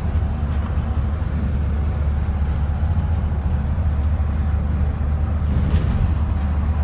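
Steady low rumble of road traffic, with a faint steady tone above it.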